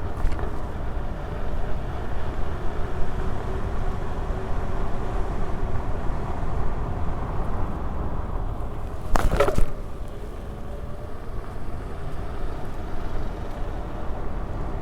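Steady wind and tyre rumble from an electric unicycle being ridden, with a faint whine that slowly rises and falls. A short, loud burst of noise comes about nine seconds in.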